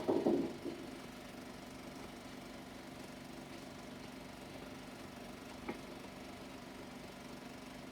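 Steady low hum and hiss of a worn 16mm film soundtrack, with a short loud burst of noise right at the start and a single sharp click about five and a half seconds in.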